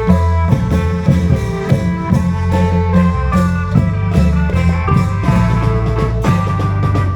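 Isan klong yao band music: a steady drum-and-percussion beat under an amplified melody line and a heavy sustained bass.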